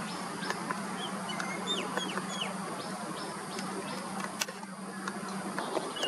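Birds chirping in the trees: a scatter of short, high, hooked notes and quick ticks over a steady low hum.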